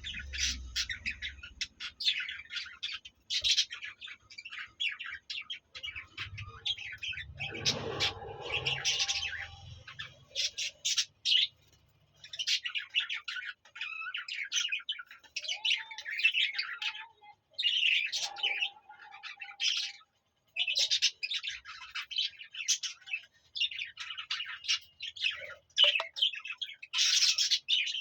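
Budgerigars chattering and warbling in quick, dense runs of high chirps with short pauses between, and a faint low rustle for a few seconds early on.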